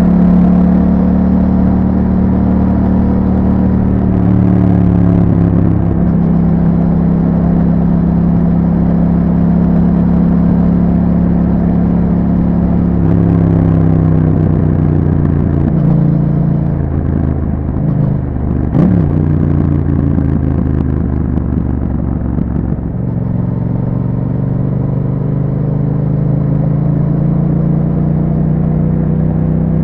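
Yamaha MT-07's parallel-twin engine through an Akrapovic exhaust with a dB killer, heard while riding. It holds steady revs for long stretches, changes pitch several times in the middle and drops to lower revs near the end.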